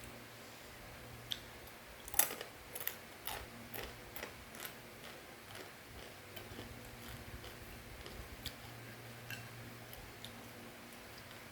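Crunchy fried macaroni snack being chewed: a quick run of sharp crackles a second or two in, then fainter scattered crunches.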